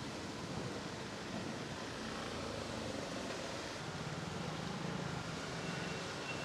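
Steady hiss of heavy rain, with a vehicle engine running through it, loudest a little past the middle.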